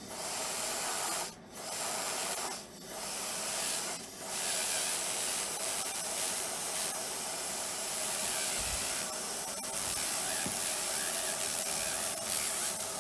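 Slow-speed dental handpiece spinning an abrasive finishing disc against a composite restoration, trimming off the excess: a steady whirring hiss that stops briefly three times in the first four seconds.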